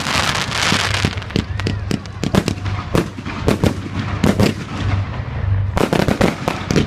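Fireworks going off: a quick run of sharp bangs mixed with crackling, densest in the first second, with a low rumble between the reports.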